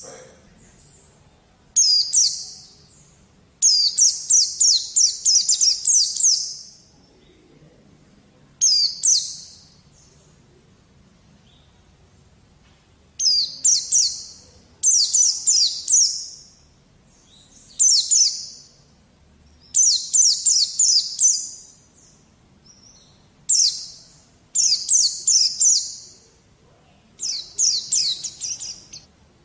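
Pleci (white-eye) song used as a masteran recording to prompt young birds to sing. It comes as about ten phrases of rapid, high, twittering chirps, each lasting one to three seconds, with short pauses between them.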